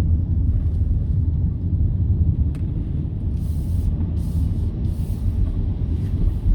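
Car road noise heard from inside the cabin while driving: a steady low rumble of engine and tyres, with a few short hisses in the middle.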